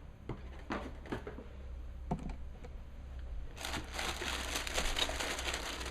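Plastic bags of model-kit parts crinkling as they are handled. A few light clicks and taps come first, then denser crinkling from about three and a half seconds in.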